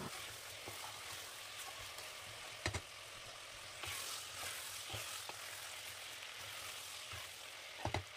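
Chicken pieces sizzling steadily in hot mustard oil in an aluminium pressure cooker as they are browned, with a wooden spatula stirring them and knocking against the pot a few times.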